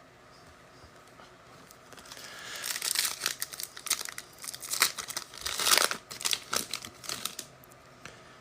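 A trading card pack being torn open and its wrapper crinkled: irregular crackling and tearing that starts about two seconds in and dies away near the end.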